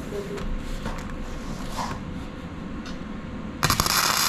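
A few faint clicks, then about three and a half seconds in a welding arc strikes suddenly and crackles steadily and loudly as a tack weld is laid on the steel fire-pit ring.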